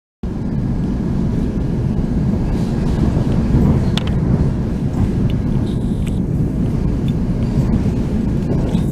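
Steady low rumble of a moving train, with a few faint sharp ticks about halfway through.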